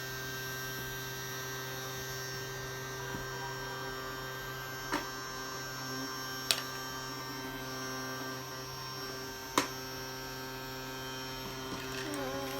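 Vacuum cleaner running steadily with a constant motor tone. Three short knocks come about five, six and a half and nine and a half seconds in.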